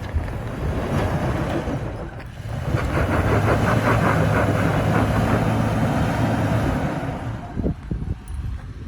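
Off-road 4x4's engine running under load, swelling louder about two and a half seconds in and holding steady for several seconds before easing off near the end.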